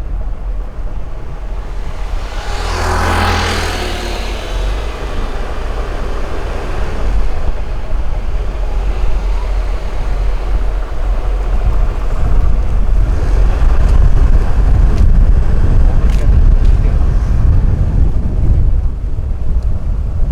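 Wind buffeting the microphone over the running engine of a moving motorbike, a steady low rumble. A louder rushing swell comes and goes about three seconds in, and the wind grows stronger from about halfway through.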